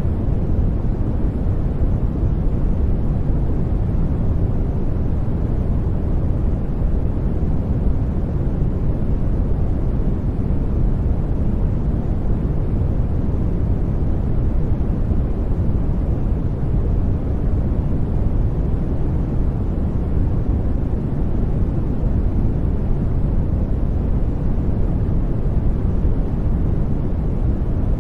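Steady, unchanging noise of the kind played for study and sleep, weighted toward the low end and fading off toward the highs, so it sounds like a deep, even rush rather than a bright hiss.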